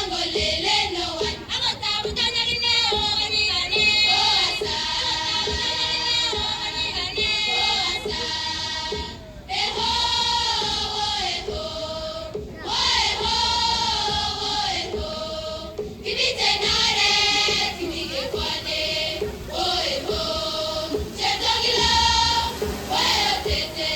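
A choir of voices singing with musical accompaniment, in held, gliding phrases with brief pauses between them.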